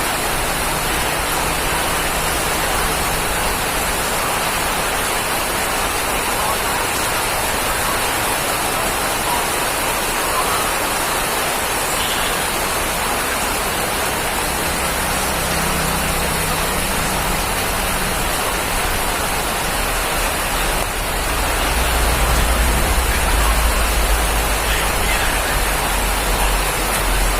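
Steady rain falling, an even dense hiss of drops. About three-quarters of the way through, a low rumble joins in and the sound grows slightly louder.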